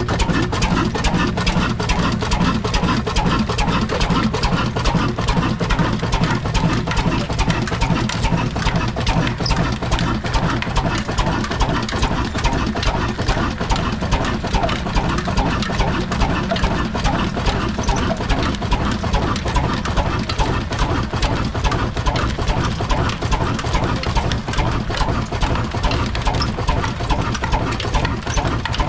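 Old black double-flywheel Ruston-type diesel engine, a desi single-cylinder type, running steadily with a fast, even beat.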